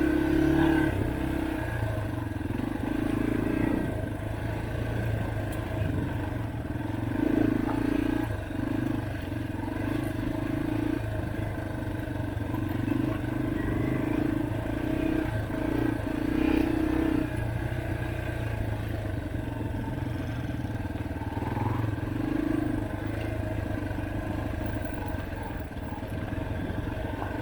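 Dirt bike engine running while riding, its note coming and going every second or so as the throttle is opened and eased.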